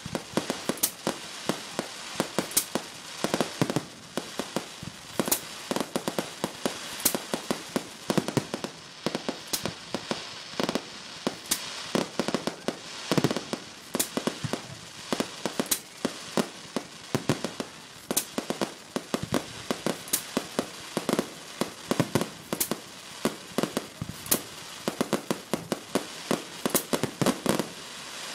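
Fireworks display: a rapid, irregular series of aerial shell bursts, several bangs a second, over a continuous crackle of glittering effects.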